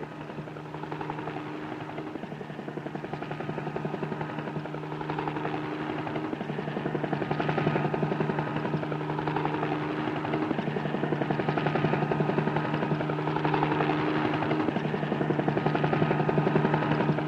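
Helicopter engine and rotors running with a steady hum and a fast, even rotor beat, growing louder over the first several seconds as the helicopter lifts off.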